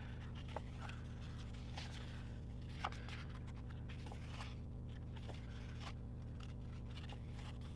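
Faint rustling and light clicks of sticker book pages and sticker sheets being handled, with one sharper tick about three seconds in, over a steady low hum.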